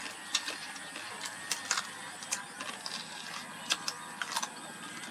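Crab shells cracking and crunching between the teeth and fingers while eating, a run of irregular sharp cracks and clicks.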